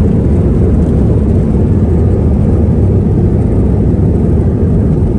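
Jet airliner heard from inside the passenger cabin: a loud, steady low rumble of engines and rushing air, with no distinct events.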